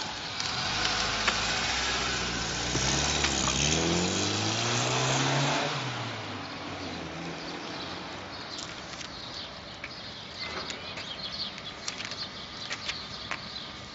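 A car drives past, its engine pitch climbing and then dropping away as it goes by. Scattered light clicks and knocks follow.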